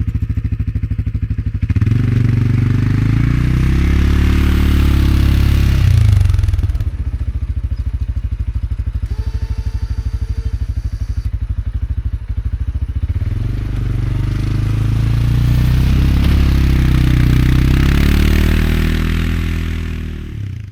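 CFMoto CForce 520L ATV's single-cylinder engine running under load while plowing snow, speeding up and easing off twice, with a lower, steadier stretch in the middle.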